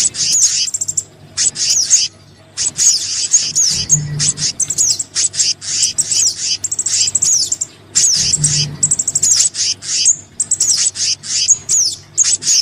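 Bird-lure recording of small songbird calls (sogon and kehicap combined): rapid high chirps and quick downward-sweeping whistles in dense bursts with short gaps, the pattern repeating every four seconds or so. Under it runs a low steady hum.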